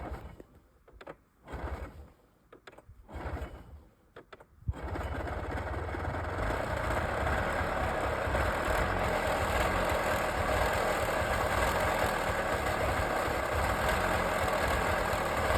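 Snowmobile engine cold-starting: a few short, uneven bursts of cranking and sputtering, then it catches about five seconds in and keeps running steadily.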